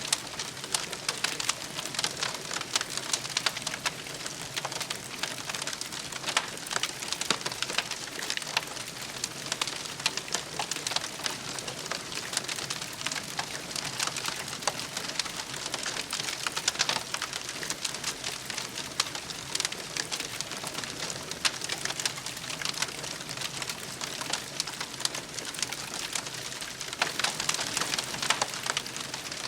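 Campfire wood burning with a dense, steady crackle of many small pops and snaps.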